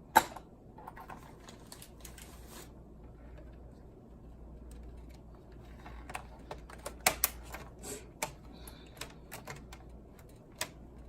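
Plastic clips of a laptop's bottom case clicking and snapping as the case is pried off: one sharp snap at the start, then a run of irregular clicks from about halfway through.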